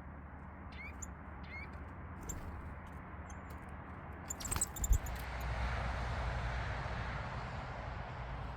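Small birds giving short rising chirps in the first couple of seconds. A thump about five seconds in is followed by a steady rushing noise.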